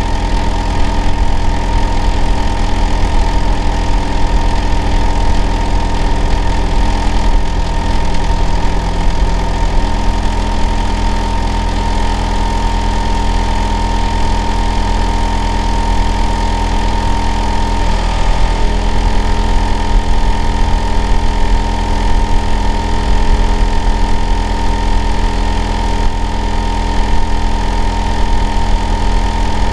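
Hitachi air-conditioner outdoor unit running in winter: a steady, loud low hum under several steady tones, the most prominent a whine near 1 kHz. About 18 seconds in, the tones wobble briefly and shift pitch. The noise is what the neighbour calls abnormal and noisy.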